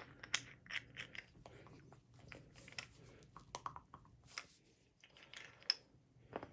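Faint, irregular clicks and light taps, a few a second, with a few sharper knocks, the sound of small parts and tools being handled by hand.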